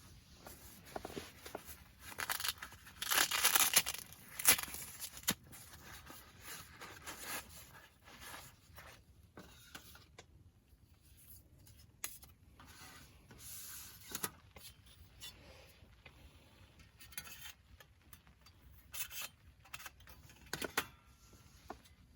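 Hands handling things close to the microphone: a loud stretch of rustling and tearing about two to five seconds in, then scattered clicks, light knocks and brief rustles.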